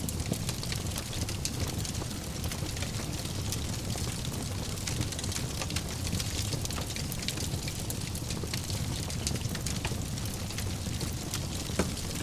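Wood fire in a fireplace burning steadily, with a continuous low rush of flames and many small crackles and snaps, and one sharper pop near the end.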